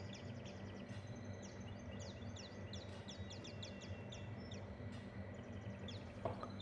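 Small songbirds chirping: quick, short, high chirps that slide downward, repeated over and over, over a faint steady hum.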